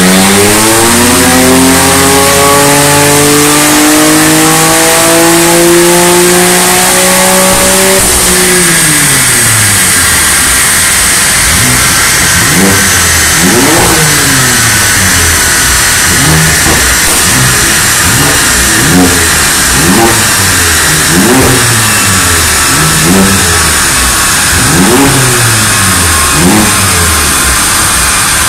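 BMW F80 M3's twin-turbo straight-six, fitted with a valved cat-back exhaust, running on a chassis dyno. The engine pulls up in one steady rising pitch for about eight seconds, then lifts off and falls away. After that come short revs up and down, about one every second and a half, over a steady high whine.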